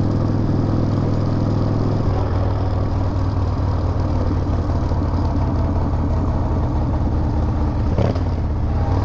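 Harley-Davidson V-twin motorcycle engine running on the road, its note changing about two seconds in, with a brief knock near the end.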